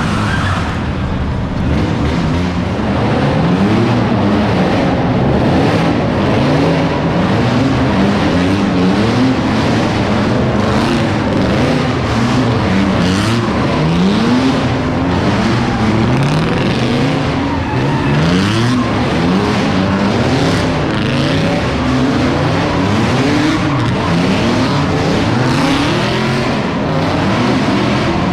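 A car engine revving hard over and over, each rev rising in pitch and dropping back about once a second, with a steady hiss of tyre noise underneath, typical of a car doing a burnout or drifting.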